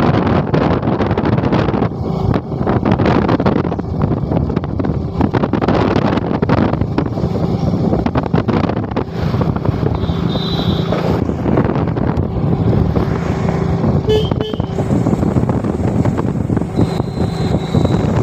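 Motorcycle running at road speed, its engine hum under heavy wind buffeting on the microphone. Two brief high tones sound, about ten seconds in and near the end.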